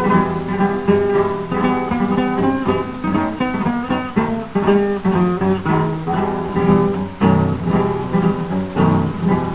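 Two guitars playing the instrumental interlude of a tonada between sung verses, a steady run of plucked and strummed notes, on an acoustic-era 78 rpm record.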